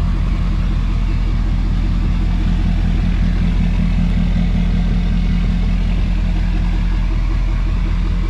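LS-swapped V8 in a Chevy stepside pickup idling steadily after start-up, its exhaust running in a fast, even pulsing beat.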